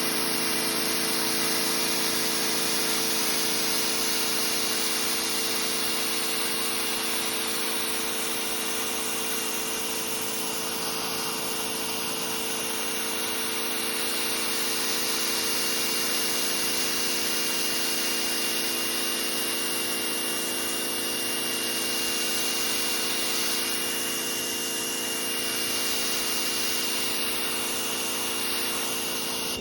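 SunJoe electric pressure washer running steadily, its motor humming with a thin high whine over the hiss of the water jet from a 40-degree nozzle; it stops abruptly at the end.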